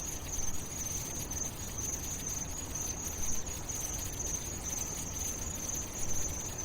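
A steady high-pitched trill, faintly pulsing, over a low rumble, like insects chirring in the night.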